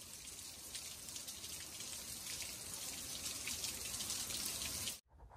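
Steady rain falling, a dense hiss of many small drop patters, which cuts off abruptly about five seconds in.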